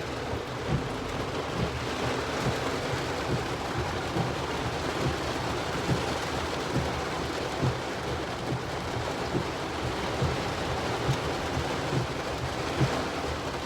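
Heavy rain pouring steadily, with frequent irregular low thuds through the rush.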